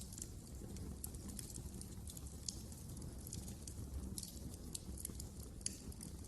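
Wood fire burning in a fireplace: a steady low rumble of the flames with irregular sharp crackles and pops, two of them standing out, the first at about two and a half seconds and the second near the end.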